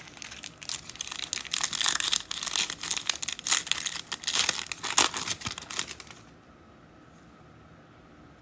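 Foil trading-card pack wrappers being torn open and crinkled by hand, a busy run of crackling that stops about six seconds in.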